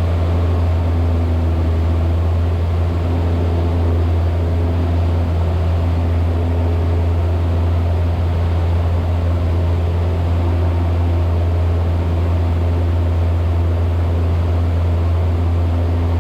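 Cessna 172's piston engine and propeller droning steadily at 2,500 RPM cruise power, heard from inside the cockpit.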